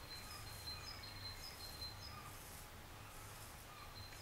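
Faint, repeated short high chirps of a small bird, about two a second with a pause in the second half.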